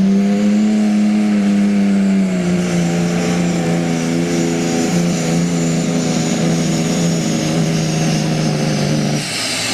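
Super stock pulling tractor's engine running at full throttle under the sled's load, with a high whine over it. The engine note drops slightly about two seconds in, holds steady, and cuts off near the end.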